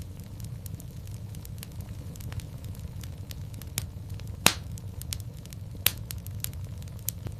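Wood fire in a fireplace crackling: scattered sharp pops over a low steady rumble, with a loud pop about four and a half seconds in and another about six seconds in.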